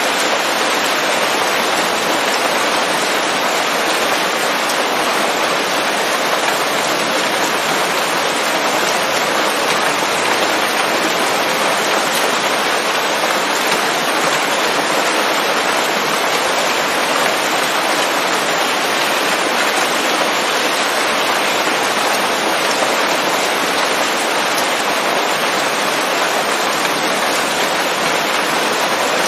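Steady rain falling on leaves in a forest: an even, unbroken hiss that neither swells nor fades.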